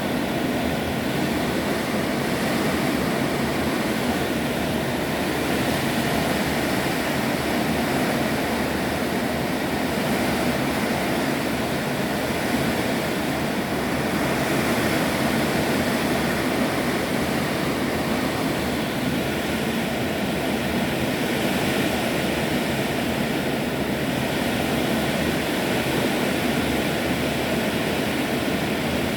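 Heavy rain with wind: a steady, dense rushing noise that swells and eases slowly.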